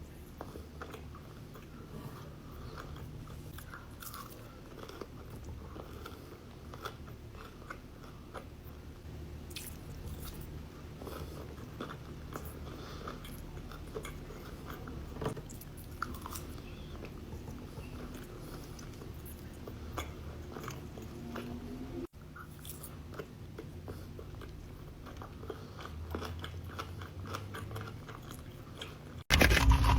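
Close-up eating sounds: a person biting and chewing food, with crunchy bites and small clicks. The sound cuts off abruptly twice, and after the second cut, near the end, it becomes much louder.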